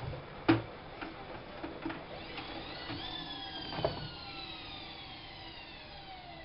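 Washing machine's motor and drum whining down in pitch as the spin slows, a set of tones gliding steadily lower. A sharp click about half a second in and another near four seconds.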